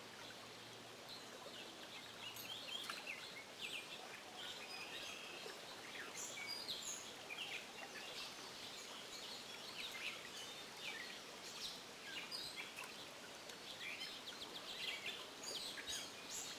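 Several songbirds chirping and singing in short calls scattered throughout, over a faint steady rush of a flowing stream.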